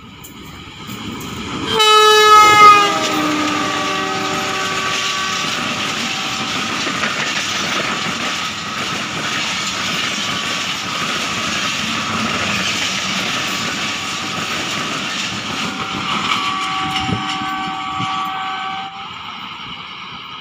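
Diesel locomotive sounding its horn as it approaches and passes at speed. The horn is loudest about two seconds in and drops in pitch as the engine goes by. The coaches then rush past with a steady rail clatter.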